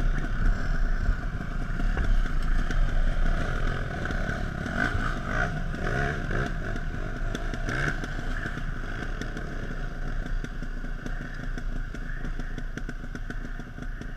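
Off-road dirt bike engine running, loudest in the first few seconds and then easing off.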